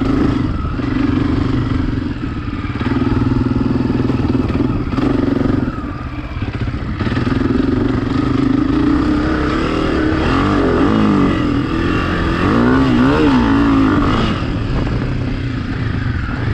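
Dirt bike engine running as it is ridden, the revs dipping briefly a few times, then rising and falling repeatedly near the middle as the throttle is worked.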